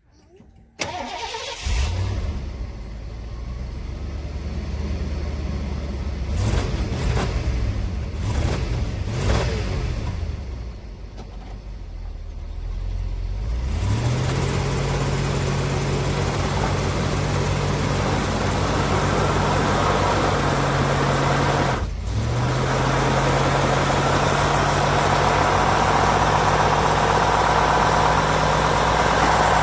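A car engine is cranked and catches, is revved up and down a few times, then is held at steady high revs for a long stretch, dropping briefly once about two-thirds of the way through. This is a burnout with the rear tyres spinning.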